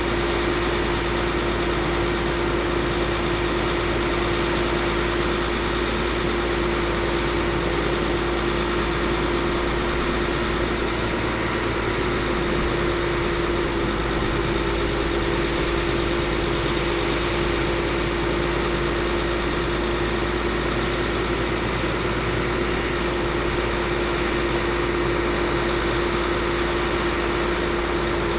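Caterpillar C7 diesel engine of a medium-duty truck running steadily at idle, with a constant steady tone over it.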